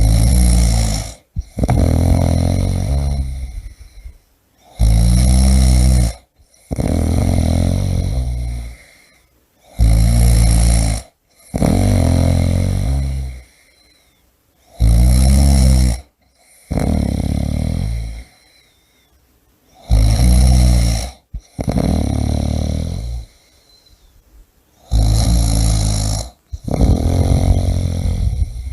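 A person snoring loudly and rhythmically: a rattling, low snore on each breath, about one breath every four to five seconds, with brief quiet pauses between.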